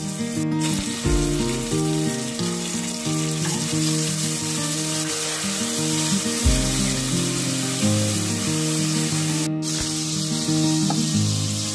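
Food sizzling as it fries in oil in an enamelled cast-iron pot, stirred with a wooden spoon, over background music with a melody of changing notes. The sound cuts out briefly twice.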